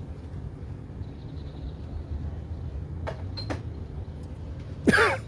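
Steady low rumble aboard a moving yacht, with a few sharp clicks about three seconds in and a short, loud vocal cry near the end.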